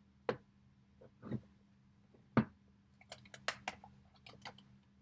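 A hard acrylic evening bag with silver trim being handled: scattered taps and clicks, a sharper knock a little past two seconds in, then a quick run of light clicks after three seconds.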